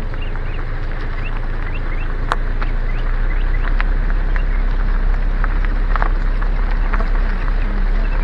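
Car rolling along with its windows down: a steady low rumble of tyres, engine and wind, with scattered short clicks and ticks.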